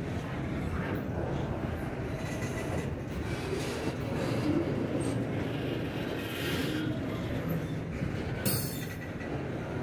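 Double-stack intermodal freight cars rolling past: a steady noise of steel wheels on the rails, with faint high tones now and then and a brief sharp click about eight and a half seconds in.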